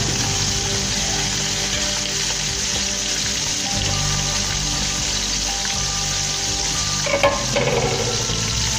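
Blue crabs and squid sizzling in an aluminium cooking pot, a steady hiss, with a brief knock about seven seconds in.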